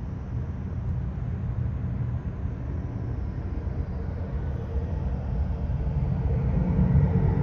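Airliner's engines rumbling low and growing louder, with a higher engine whine coming in near the end as the aircraft gets closer.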